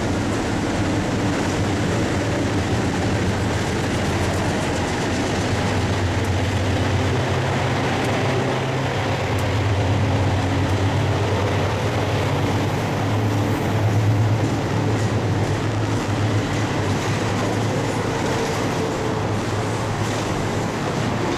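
Diesel-hauled freight train rolling through a rail yard: a steady locomotive engine hum with the rumble and clatter of wagons on the track, the engine swelling louder about halfway through.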